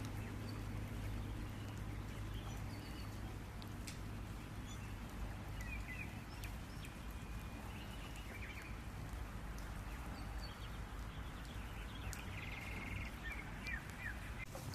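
Outdoor after-rain ambience: small birds chirping in short, scattered high calls over a steady low hum, with a few sharp ticks here and there.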